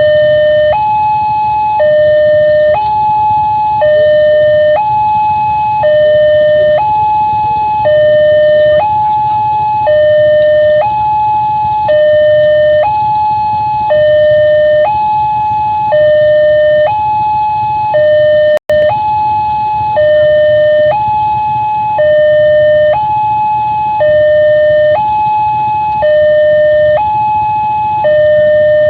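Railway level crossing warning alarm sounding: an electronic two-tone signal alternating high and low, about a second each, repeating steadily, with a brief dropout about two-thirds of the way through. It warns that a train is approaching the crossing.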